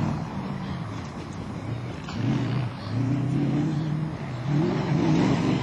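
Off-road competition car's engine revving hard. The engine note rises and falls several times as the driver shifts gears and lifts off over the rough track, and it grows louder near the end as the car approaches.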